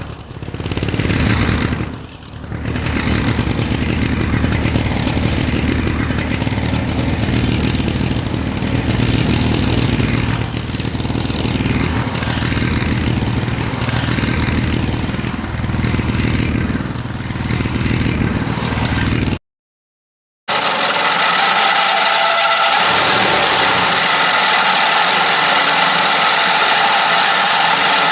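An engine running, its revs rising and falling. After an abrupt one-second break, a different steady sound with high whining tones takes over.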